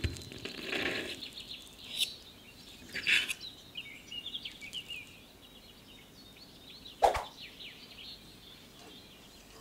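Birds chirping in the background, with a few short knocks, the loudest about seven seconds in.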